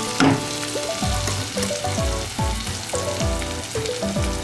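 Ginger-garlic paste frying and sizzling in mustard oil in a kadai as it is stirred. Background music with a deep bass beat about twice a second plays over it.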